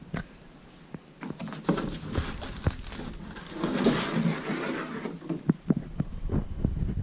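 Bike parts and tools being handled during a mountain bike build: irregular small knocks and clicks, with a rustling stretch around the middle.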